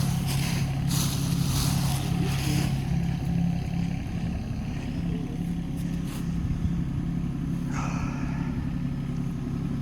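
Hitachi ZX18 mini excavator's diesel engine running at a steady pitch, with short bursts of noise from the bucket digging in the soil in the first few seconds and again about eight seconds in.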